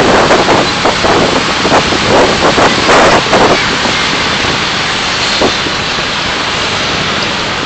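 Driving noise from a car dashcam's microphone: a steady rush of road and wind noise with irregular gusty bursts.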